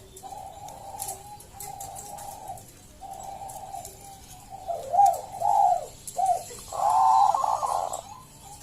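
Bangkok-type zebra dove (perkutut) singing: a run of soft rolling coos, then louder swooping notes about five seconds in, and a long loud coo near the end.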